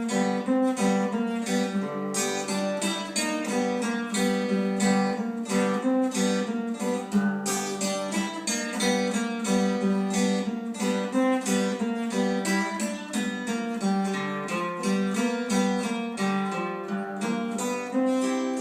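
Guitar played alone, a steady stream of quickly picked notes that change pitch many times a second.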